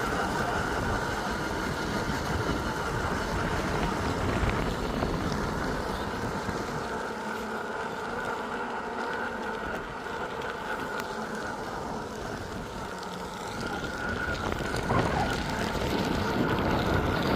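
Fire truck engines running, a steady rumble with a faint steady whine above it.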